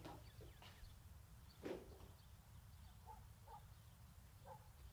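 Near silence: low steady room hum, with one faint rustle of bodies shifting on a bed about a second and a half in.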